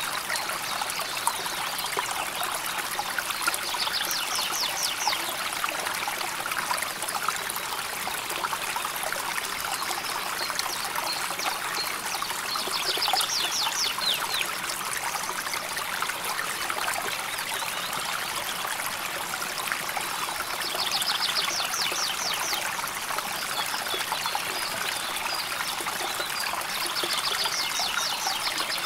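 River water flowing gently and steadily. A short, high, rapid trill cuts in four times, each lasting about a second.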